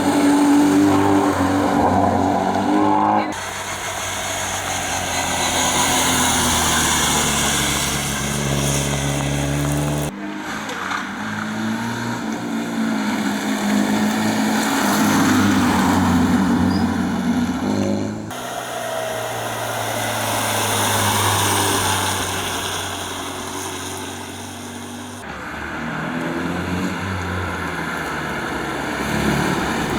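Historic rally cars at full stage speed, engines revving hard and rising and falling in pitch through the gears, in several short passes that change abruptly about every seven seconds.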